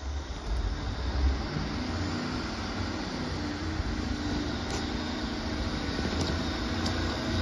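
Steady rumble of an approaching train, growing slightly louder.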